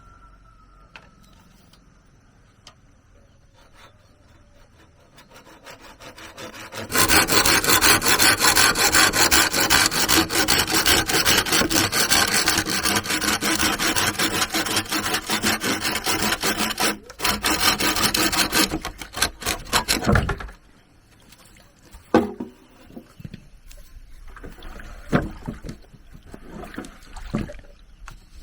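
A saw cutting through bamboo with fast, continuous rasping strokes, starting about seven seconds in, breaking off briefly, then stopping a few seconds later. Afterwards come scattered light knocks and rustling as the pieces are handled.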